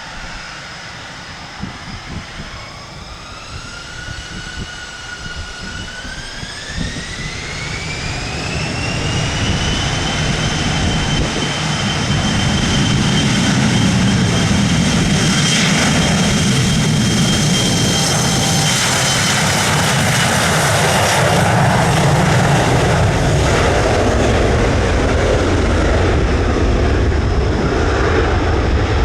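Jet airliner's engines spooling up to takeoff power, a whine rising in pitch over several seconds and then holding steady. The engine noise and deep rumble grow louder and stay loud through the takeoff run. Gusty wind buffets the microphone in the first few seconds.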